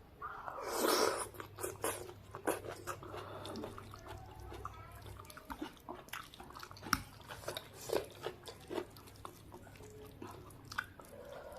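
Close-up eating of noodles in clear broth: a loud slurp about a second in, then chewing with wet lip smacks and clicks throughout.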